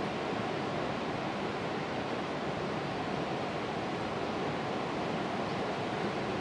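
Steady rushing of a 20-metre waterfall, an even wash of falling water that stays constant throughout.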